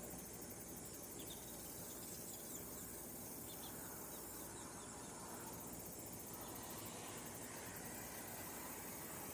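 Faint outdoor ambience: insects trilling high and steadily, fading in and out, over a low constant background hum, with a few faint short chirps in the first few seconds.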